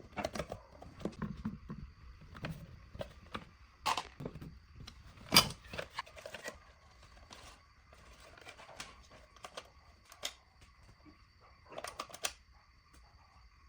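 Irregular light clicks and taps of small parts being handled, with one sharper knock about five seconds in and a quick cluster of clicks near the end.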